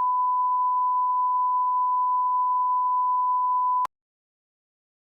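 Steady 1 kHz sine test tone that cuts off abruptly about four seconds in, followed by dead silence.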